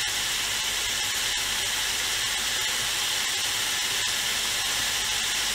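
Cubes of peeled zucchini frying in a pan: a steady sizzle with a few faint pops.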